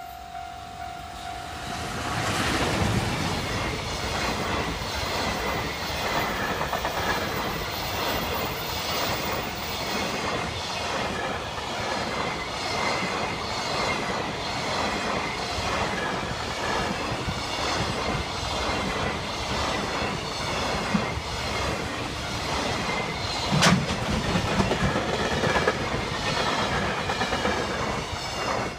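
A JR Freight EF210 electric locomotive and its long train of container flatcars passing close by. The sound swells about two seconds in, then holds as a steady wheel rumble with a rhythmic clickety-clack of wheels over rail joints. One sharp knock comes late on.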